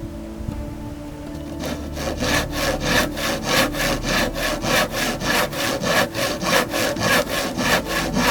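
Hand saw cutting through wood in quick, even back-and-forth strokes, about three a second, starting near two seconds in and stopping abruptly at the end.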